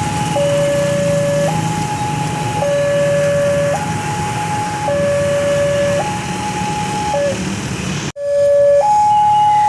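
Railway level-crossing warning alarm sounding a two-tone high-low signal, each tone held about a second, over a low rumble. The sound breaks off abruptly about eight seconds in and the same alarm returns louder.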